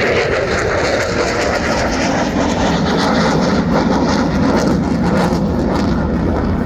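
F-16 fighter jet flying past in a loud, steady jet roar, with a deep rumble that grows stronger through the middle and later part.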